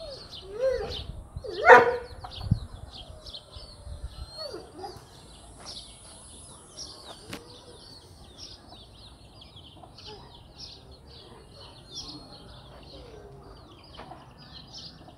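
Small birds chirping in a steady, high twittering chorus. One loud, short animal call stands out about two seconds in.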